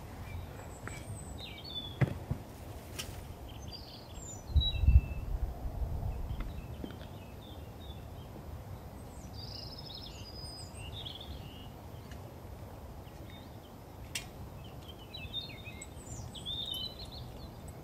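Small songbirds chirping and singing on and off, over low wind rumble on the microphone that gusts hardest about five seconds in. A few sharp clicks stand out near the start and again near the middle.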